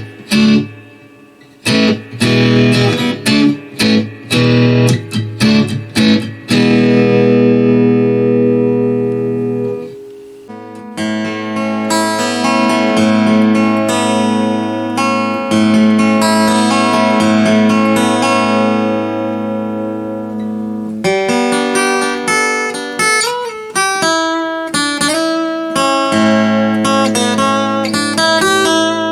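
J.D. Lewis Warrior acoustic guitar with phosphor bronze strings, played through its pickup into an electric guitar amp. A run of short, sharp strummed chords gives way to a chord left ringing, a brief pause, then sustained strumming and a quicker picked passage near the end.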